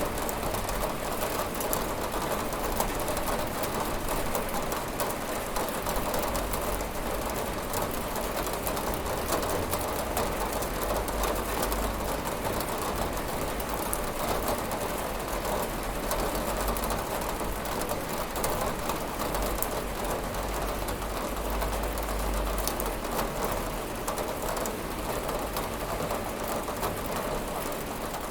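Steady rain falling on a window: a dense, even patter with a low rumble underneath that swells now and then.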